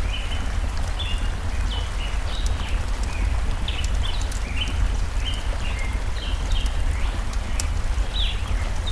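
Stream water flowing with a steady rush and a low rumble, overlaid by birds chirping short, quick notes again and again, with a few sharp crackles from a campfire.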